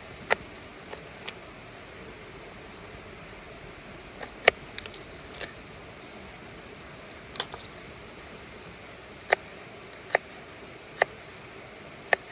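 A series of sharp clicks and knocks from hard objects being handled, with a cluster near the middle and then about one a second near the end, over a faint steady hiss.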